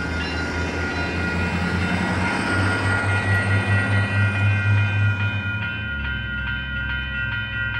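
A SMART diesel multiple-unit passenger train passing close by: its underfloor diesel engines run under the rush of wheels on rail. The rushing dies away after about five seconds, and the engine note drops as the train moves off.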